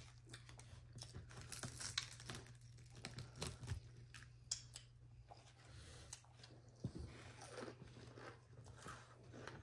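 Close-up chewing and crunching of crispy fried chicken: irregular crackling bites and mouth noises over a steady low hum.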